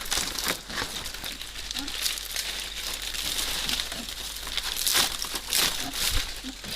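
Irregular crinkling and rustling, a quick run of uneven strokes, as of something dry or crinkly being handled.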